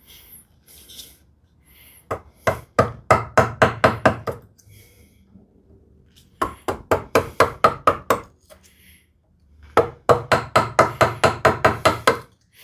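A half-inch wood chisel being driven into wood with quick repeated blows, in three runs of about four or five strikes a second, chopping waste out of a groove a little at a time.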